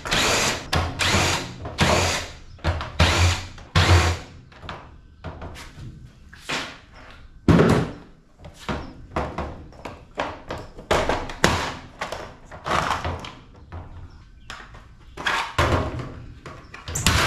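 A washing machine being taken apart for scrap: irregular knocks and clanks of parts being pulled and handled, with short bursts of a power drill in the first few seconds.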